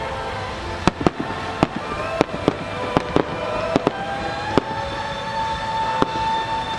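Aerial fireworks shells going off: about ten sharp, separate bangs at uneven intervals over a few seconds, heard over steady held tones.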